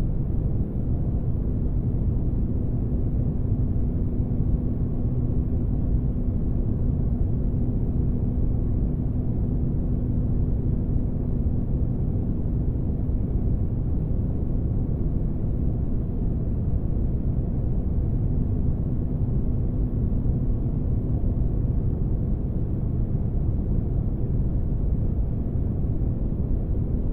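Synthetic spaceship-engine ambience: a steady deep rumble of noise with a faint constant hum, unchanging throughout.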